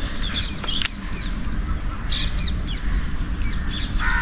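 Birds calling outdoors in several short clusters of quick high chirps, over a steady low rumble.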